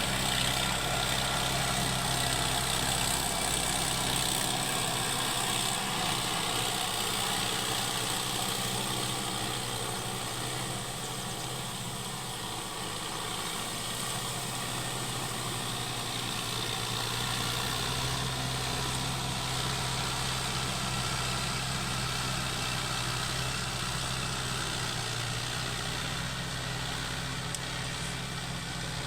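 Hindustan 60 4WD tractor's diesel engine running steadily. Its deepest rumble fades about four seconds in and comes back some twelve seconds later.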